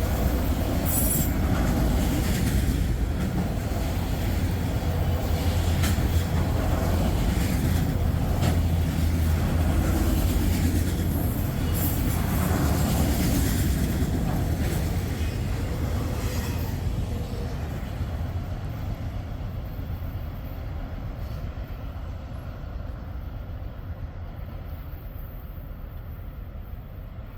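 Train cars rolling past on the rails: a steady low rumble with wheel clicks and brief high wheel squeals, fading away over the last ten seconds as the train moves off.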